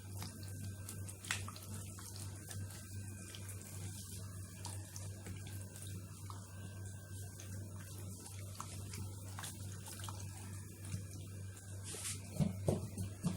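Wet squishing and small clicks of hands rubbing spice marinade into raw chicken leg quarters, over a steady low hum, with a few louder knocks near the end.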